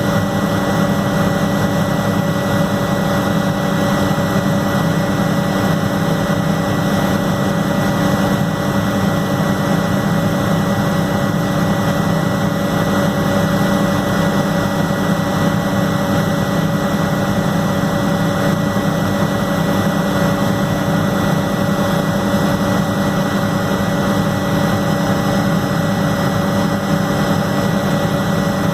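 Helicopter engine and rotor noise heard from on board: a constant loud drone with a steady high whine over it.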